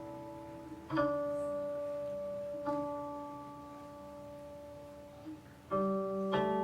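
Guqin (seven-string Chinese zither) played slowly: a few plucked notes and note pairs, each ringing on and fading over a second or two before the next pluck.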